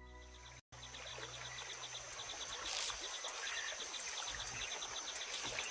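Rainforest insect chorus: a steady high-pitched trill with rapid, evenly spaced cricket-like chirps, slowly growing louder. Soft music ends abruptly under a second in.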